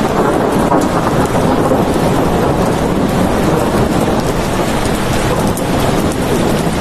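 Steady heavy rain with a deep low rumble underneath.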